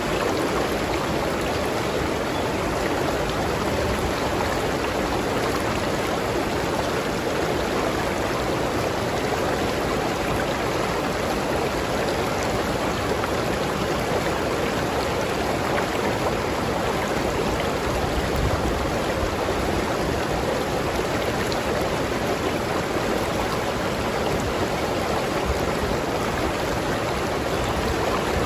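A river stream flowing over rocks: a steady, even rush of running water.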